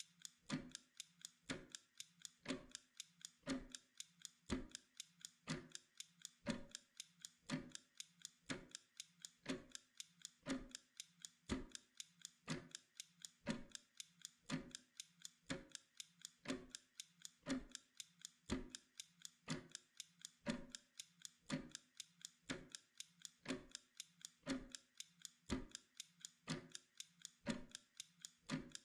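Steady, even clockwork ticking of a timer, one sharp tick after another at a constant rate.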